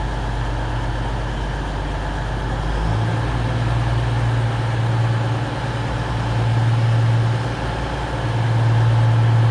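Diesel engines of an East Midlands Railway Class 222 Meridian multiple unit running with a steady low drone. The note shifts about three seconds in, and the sound grows louder near the end.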